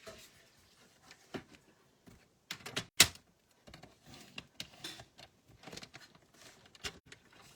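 Designer series paper being scored and handled: short scrapes and clicks of the scoring tool and paper on the work surface, with one sharp click about three seconds in.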